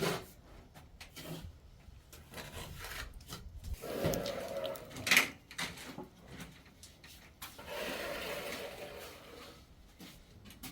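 Rough scraping on a hard surface in two long passes, one about four seconds in and one near the end, with a sharp knock between them.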